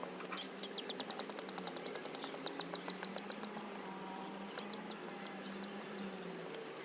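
Faint bird chirping: quick high trills of short notes, several runs in the first half and a short one later, over low background hiss.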